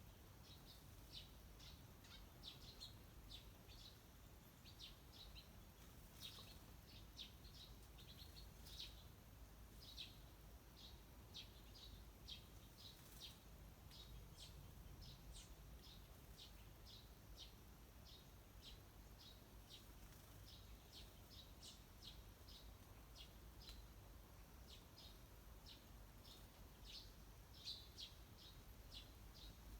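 Wild birds calling faintly: a long, fairly regular run of short, high chirps, two or three a second.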